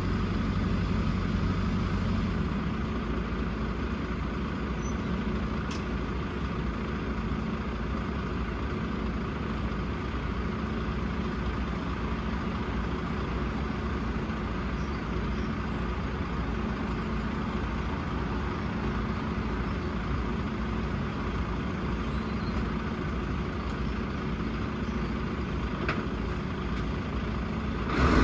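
JCB 4CX backhoe loader's diesel engine running steadily at an even pace, with a short clunk near the end.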